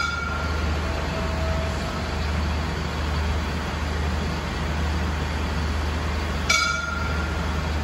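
A diesel passenger train standing at a station platform, its engines running with a steady low hum. Two short sharp clinks with a brief ringing note come at the start and about six and a half seconds in.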